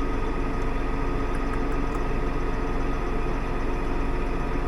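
Tractor engine running steadily, heard from inside the cab as an even drone with a steady hum.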